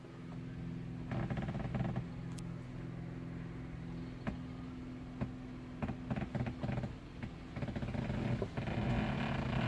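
The 1951 Chevrolet truck's engine running steadily, with scattered knocks and rattles over it in the second half.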